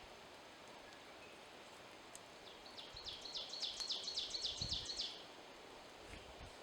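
A songbird sings one phrase of quickly repeated high notes, about four a second, growing louder and lasting about two and a half seconds, over quiet woodland background.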